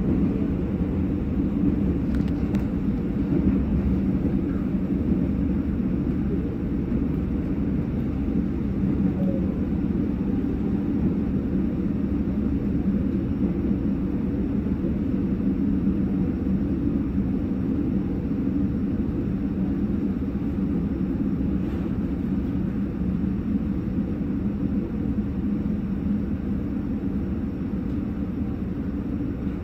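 Steady rumble of a moving train heard from inside the passenger cabin, growing slightly quieter near the end.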